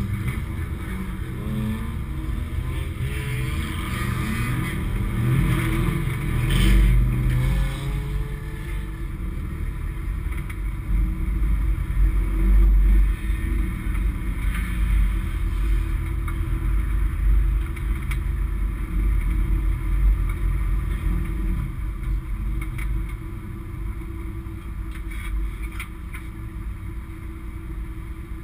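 Race car engine heard from inside the stripped cabin, running throughout and revved in surges, its pitch rising and falling several times in the first half, with the loudest bursts about six and twelve seconds in.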